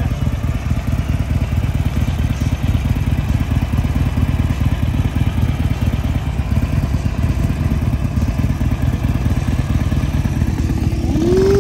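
Harley-Davidson motorcycle engine running steadily in a low, fast-pulsing rumble. Near the end a higher pitched tone rises and then holds steady over it.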